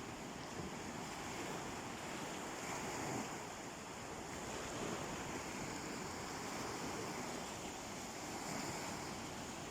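Sea waves washing onto a beach, a continuous surf noise that swells gently every few seconds.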